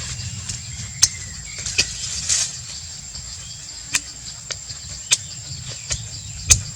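Irregular sharp clicks and taps, about six, over a steady high-pitched insect-like drone and a low rumble.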